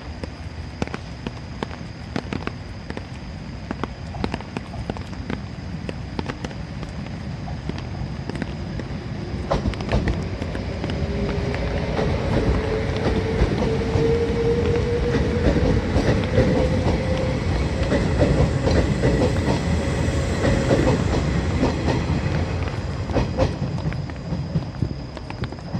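Train running on the rails with a rhythmic clickety-clack of wheels over rail joints. It grows louder through the middle, where a steady whine rises slightly in pitch, then eases off near the end.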